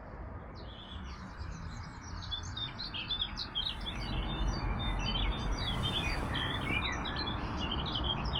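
Many small birds chirping in a morning dawn chorus. The chirps start about half a second in and grow busier, over a low steady rumble.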